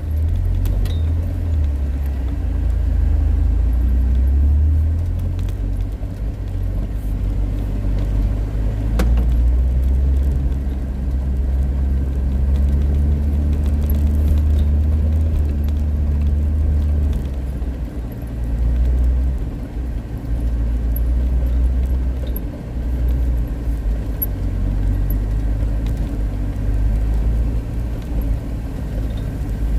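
Suzuki Jimny driving: a steady low engine and road rumble with occasional small clicks and rattles.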